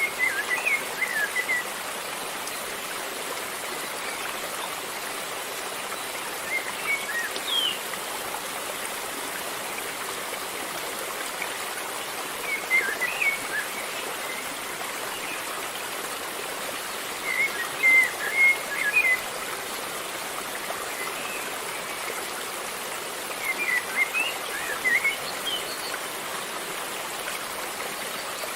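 River water flowing steadily. Over it, a bird sings short chirping phrases about every five to six seconds, each phrase louder than the water.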